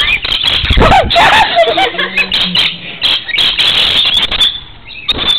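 A flock of lorikeets screeching and chattering at a nectar feeding, with many shrill calls overlapping, easing off briefly near the end.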